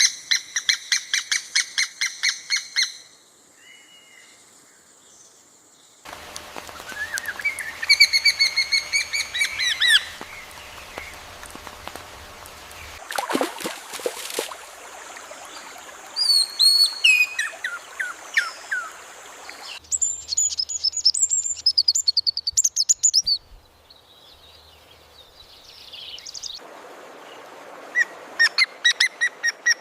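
Songbirds singing: fast runs of repeated high chirps alternate with gliding whistled trills and phrases. The background shifts abruptly every several seconds, as separate birdsong recordings are spliced together.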